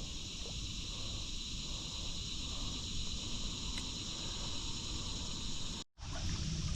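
Steady insect chorus with the hiss of flowing creek water underneath. It cuts out for a moment near the end.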